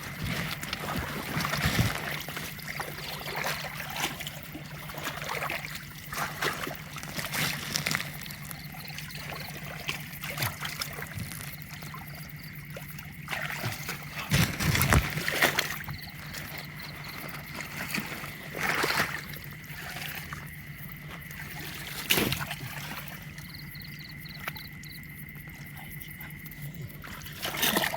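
Water splashing and trickling with irregular sloshes and knocks as someone wades and works in a shallow canal catching fish, a few louder splashes standing out, over a steady low hum.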